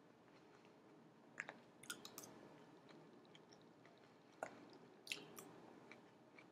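A person eating baked salmon and broccoli: faint chewing with a handful of short, sharp clicks and taps scattered through it.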